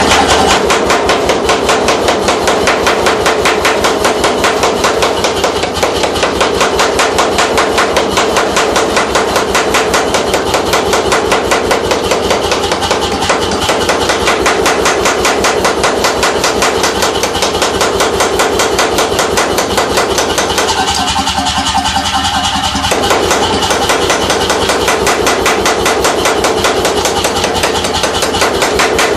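C41 pneumatic forging hammer running, its ram striking in a loud, rapid, unbroken stream of blows over a steady mechanical drone.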